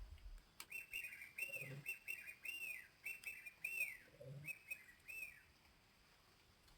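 A bird chirping: a quick run of short, arched whistled notes that starts about a second in and stops after about five seconds.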